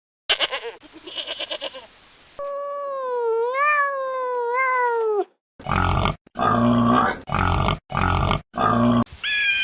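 A run of different animal calls cut one after another: a short pulsing call, then one long pitched call of about three seconds that wavers up and down, then five loud, harsh calls in quick succession, with a higher yip at the very end.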